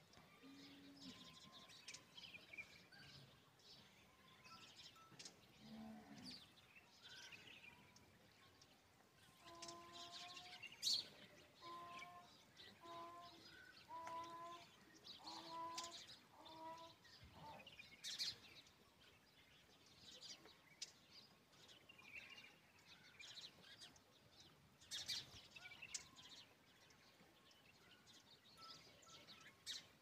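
Faint bird chirps throughout, with a run of about six short, evenly spaced calls about a third of the way in.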